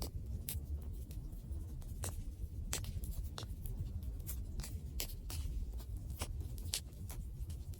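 Wood fire crackling: irregular sharp pops and snaps, a few a second, over a low steady rumble of the burning fire.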